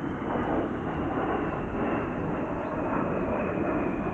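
Fighter jet flying over: a steady roar with a faint high whine slowly dropping in pitch.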